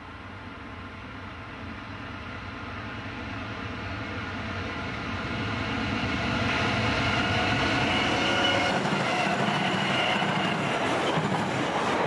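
Two Pacific National NR-class diesel-electric locomotives hauling a container freight train, their engines growing steadily louder as they approach. They pass close by about ten seconds in, and the container wagons start rolling past.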